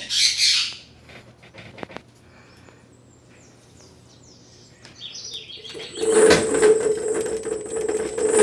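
Xiaomi M365 electric scooter's hub motor starting with faint high electronic chirps, then from about six seconds in running with a steady hum, a high whine and an irregular rattling vibration. This is the strange, unbalanced motor noise that the owner puts down to a loose motor wire or a bearing.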